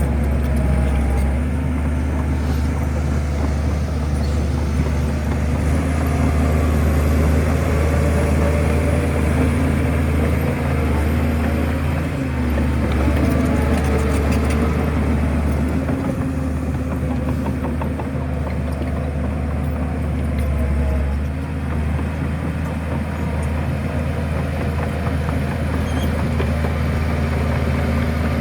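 Shantui bulldozer's diesel engine running steadily with a deep hum, its level dipping briefly about two-thirds of the way through.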